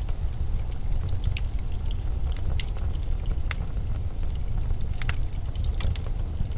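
Blizzard wind as a steady deep rumble, with scattered small crackles and ticks over it.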